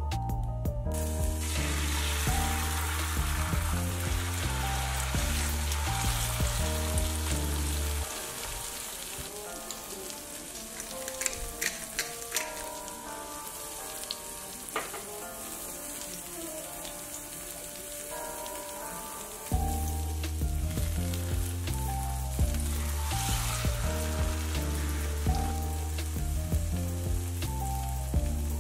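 Food sizzling steadily as it fries in a pan, starting about a second in, with a few sharp clicks around the middle. Soft background music plays throughout, its bass dropping out for a while in the middle.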